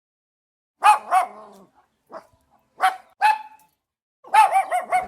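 A small dog barking in short, high-pitched barks: two pairs of barks, then a quick run of about five yips near the end.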